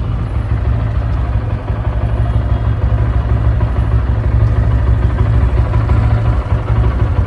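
Motorcycle engine idling steadily, a low, evenly pulsing exhaust rumble.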